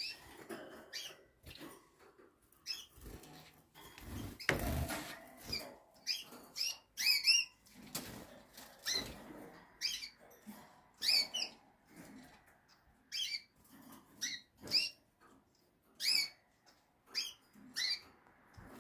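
Pet canaries chirping in short, separate calls, sometimes in quick runs of two or three, with a brief rustle about four and a half seconds in.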